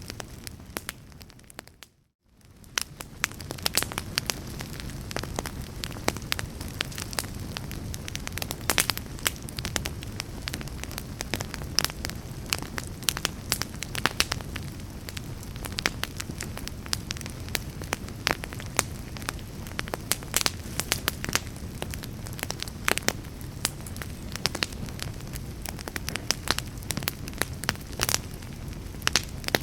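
Fire in a fireplace crackling steadily with frequent sharp pops over a low, even rumble. About two seconds in, the sound fades almost to silence and swells straight back.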